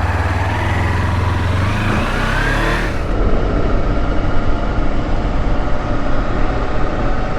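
Kawasaki Versys-X 300 parallel-twin motorcycle engine pulling away, its pitch rising as it accelerates, then running on at speed under a noisy, buffeting rush of riding noise.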